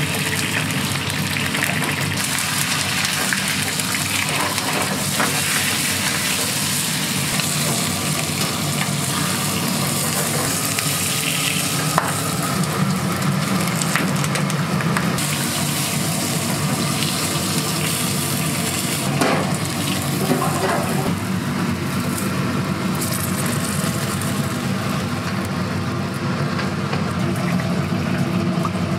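Food sizzling as it fries in a hot pan, a steady hiss over a low hum, with a few sharp utensil clicks.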